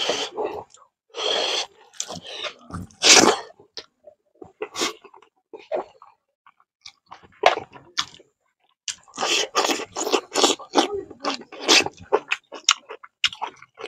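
Close, wet chewing and lip-smacking of a person eating rice and fish curry by hand, in irregular bursts with a lull in the middle.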